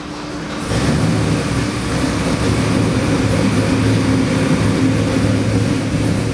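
Fuel-injected 441 ci LS stroker V8 marine engine running on an engine dyno. It gets much louder about half a second in, then holds a loud, steady run.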